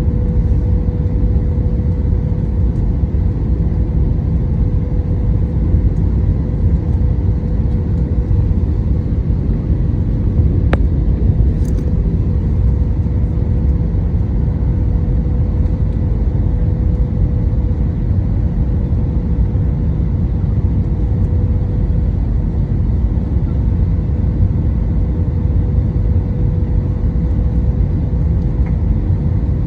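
Airliner cabin noise in flight: a loud, steady rumble of engines and rushing air with a steady hum over it. A single light click about eleven seconds in.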